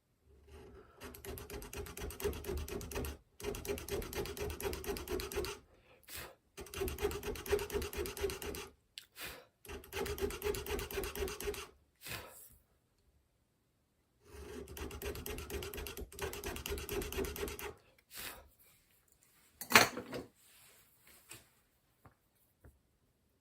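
A hand tool rasping back and forth in quick, fine strokes. It works in five runs of a few seconds each with short pauses between them, and a single sharp knock comes near the end.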